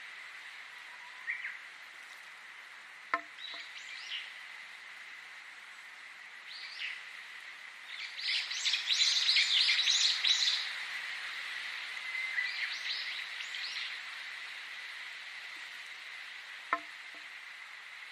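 Wild songbirds chirping in short bursts of quick high notes, busiest and loudest about halfway through, over a steady high-pitched whine. Two sharp clicks, one early and one near the end.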